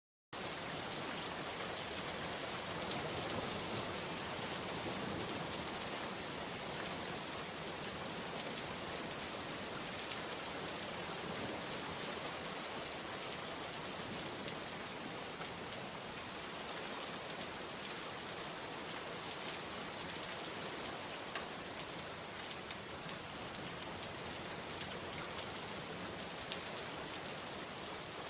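Steady rain falling, a dense even hiss with faint scattered drop ticks. It cuts in after a fraction of a second of silence at the start.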